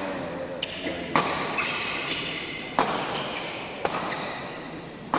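A doubles badminton rally: four sharp racket hits on the shuttlecock, one to one and a half seconds apart, with short high squeaks between them.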